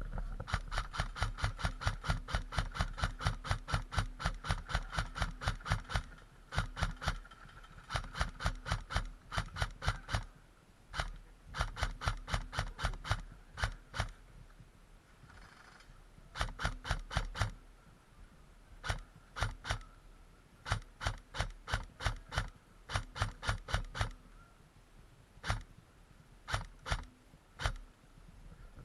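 Heavily modified ASG AR-style electric airsoft gun (high-torque motor, 12:1 gears) firing rapid semi-automatic shots, about four a second, in several strings with short pauses. A faint whine runs under the shots while it fires; the owner puts the whine down to a badly set motor height, with the pinion not meshing well with the bevel gear.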